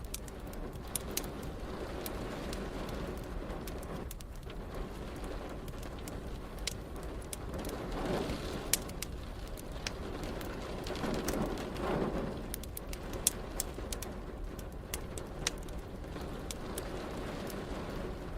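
Wood fire crackling in a fireplace: frequent sharp pops and snaps over a steady low background of rain. Two soft, low swelling rumbles rise and fade, about eight and twelve seconds in.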